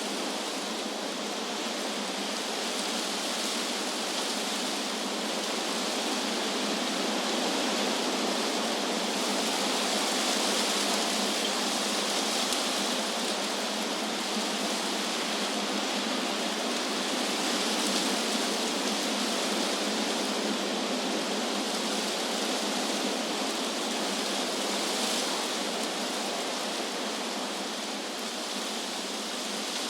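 Wind rushing through trees: a steady, even rush that swells and eases slowly.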